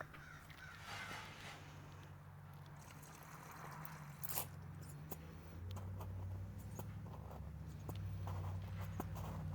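Faint handling sounds: small clicks and scrapes of a plastic bottle and measuring cup while car-wash shampoo is measured out, with one slightly louder rustle about four seconds in. A steady low hum runs underneath and grows a little louder after the midpoint.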